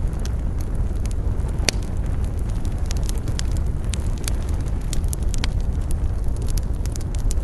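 Wood fire burning in a fireplace: a steady low rumble of the flames with irregular crackles and pops, one sharp snap a little under two seconds in.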